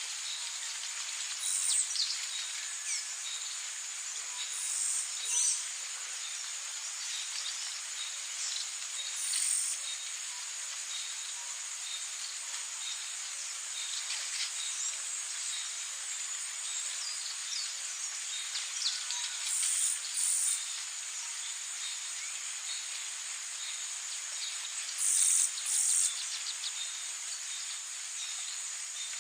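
Rainforest insect chorus: a steady shrill high-pitched drone, with loud short chirps, mostly in pairs, repeating every few seconds.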